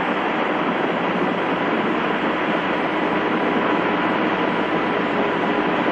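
Steady hiss of an open radio channel, cut off below and above like a voice line, with faint steady tones underneath.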